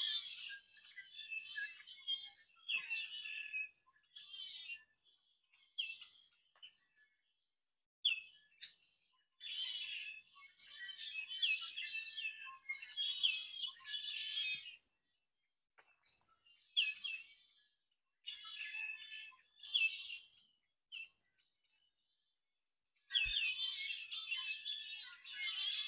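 Small songbirds chirping and twittering in bouts of a second or so, several overlapping high chirps at a time, broken by short silent gaps. A single soft low thump comes near the end.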